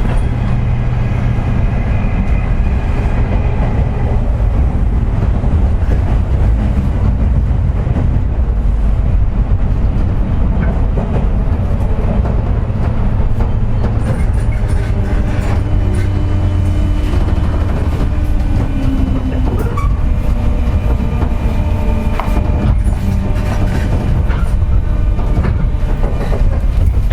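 Cabin running sound of a JR West 201-series chopper-controlled electric train's motor car: a steady rumble of wheels on rail with occasional joint clicks, and steady whining tones from traction-motor bearings pitted by electrical erosion, the 'jet sound'.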